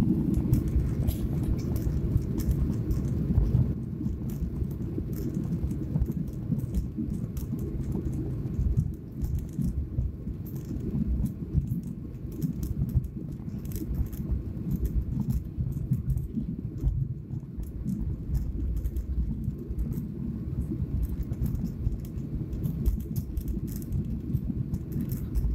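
Airliner cabin noise during takeoff: a steady low rumble with constant rattling and clicking of cabin fittings, a little louder for the first few seconds.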